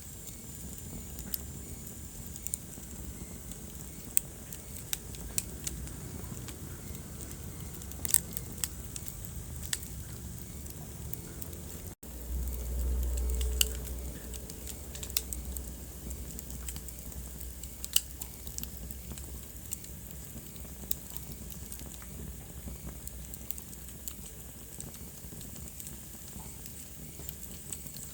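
Wood fire crackling in a fireplace, with frequent sharp pops and snaps over a steady hiss. About twelve seconds in the sound drops out for an instant, then a low rumble swells for about two seconds before the crackling carries on.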